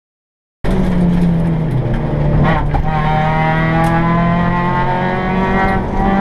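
Seat Ibiza GTI rally car's engine heard from inside the cabin, pulling hard. A gear change comes about two seconds in, the revs then ease down gradually and pick up again near the end.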